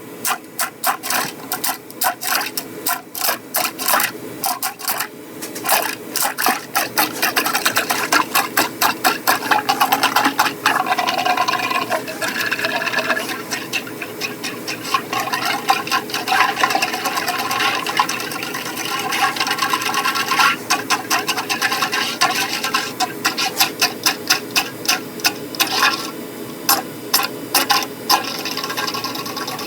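Electric Flexi-Rodder FRE drain-cleaning machine spinning a steel wire cable through a clogged drain pipe, the cable clattering in quick, even repeats, with a smoother whir in the middle stretch.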